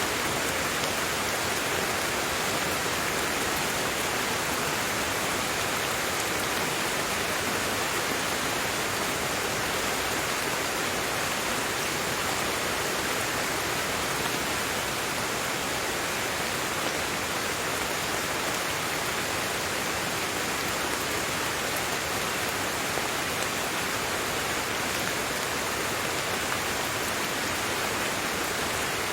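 Steady, even rain falling, a continuous hiss of drops with no letup.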